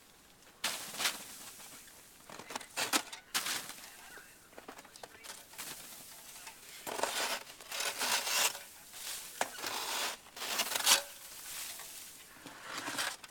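Snow being pulled down onto a plastic tarp and the tarp dragged: an irregular series of scraping and crinkling noises with short pauses between them.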